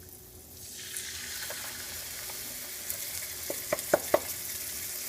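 Butter and tomato sauce sizzling in a hot pan, the sizzle swelling under a second in. A few sharp knocks against the pan come between three and four seconds in.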